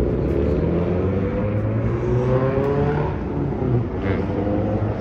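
Car engine accelerating, its pitch climbing for about three seconds, dropping, then climbing again near the end, over a steady low drone.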